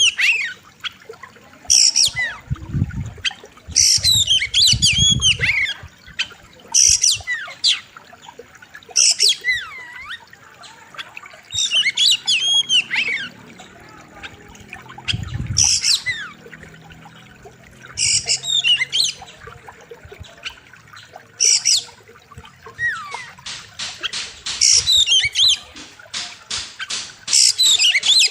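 Oriental magpie-robin (kacer) singing loud, varied whistled phrases that sweep up and down, one phrase every two to three seconds. Near the end a fast run of short repeated notes comes in.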